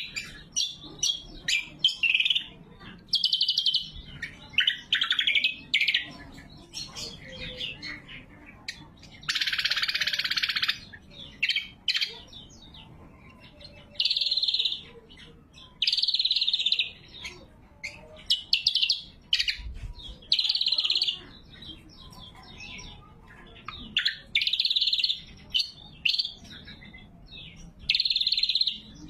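Cucak kombo singing loud, sharp phrases repeated with short gaps, with one longer, harsher and noisier call about nine seconds in.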